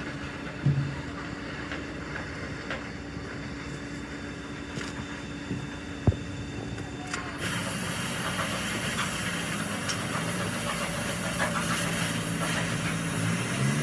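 A steady mechanical hum, with a sharp click about six seconds in; about halfway through a steady hiss of air starts and runs until it cuts off at the end.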